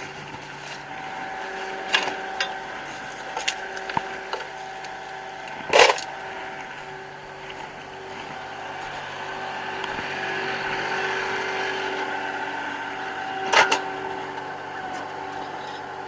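Kubota L3560 tractor's diesel engine running steadily, swelling a little in the middle. Sharp metal clanks and knocks come over it, the loudest about six seconds in and another near the end.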